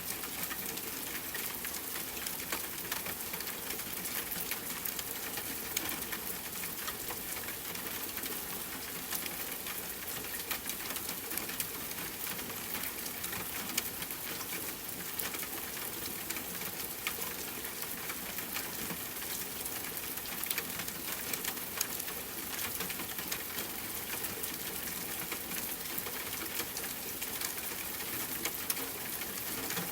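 Steady rainfall blended with a crackling wood fire: an even hiss with a constant scatter of small pops and ticks.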